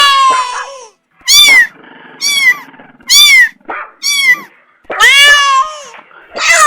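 A cat meowing again and again. Long falling meows near the start, about five seconds in and at the very end alternate with four short, high, arching mews.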